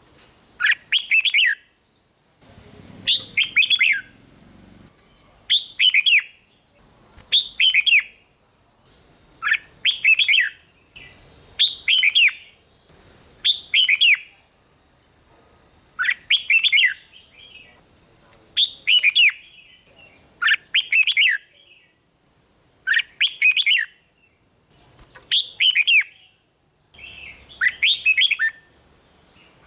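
Red-whiskered bulbul singing: short, bright, warbling phrases repeated every second or two, often in quick pairs.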